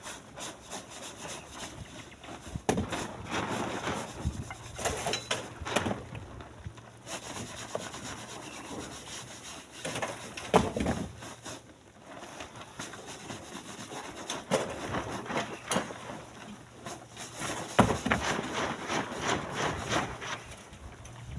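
Irregular knocks and scrapes of split stone being handled and loaded by hand, with the sharpest knock about halfway through and another a few seconds before the end.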